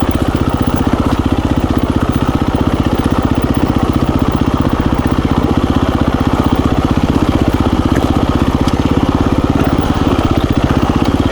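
KTM 350 EXC-F dirt bike's single-cylinder four-stroke engine running at a low, steady speed, its separate firing pulses plainly heard.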